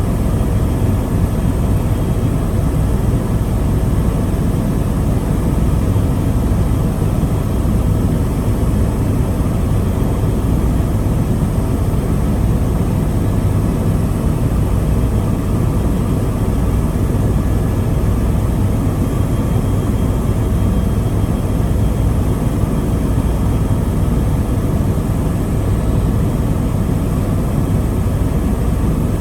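Tour helicopter in flight: a steady, even drone of engine and rotor that holds unchanged throughout.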